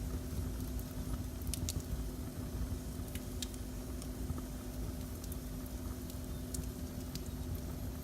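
Wood fire burning in a fireplace: scattered sharp crackles and pops, about a dozen, over a steady low rumble with a faint hum.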